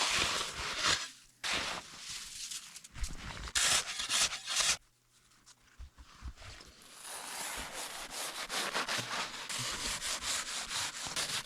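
Dense, hard-packed snow being scraped and cut away with a digging tool in repeated strokes, with a short pause about five seconds in.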